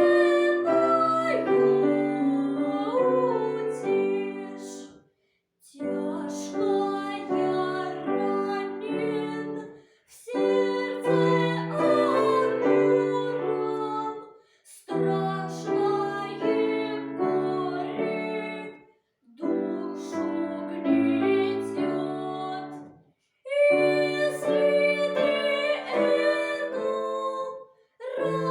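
A song sung with piano accompaniment, in phrases of about four to five seconds, each followed by a brief pause.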